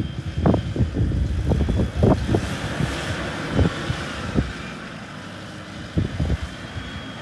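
Wind buffeting the microphone in irregular gusts, heaviest in the first couple of seconds and again about six seconds in, over a vehicle engine running steadily.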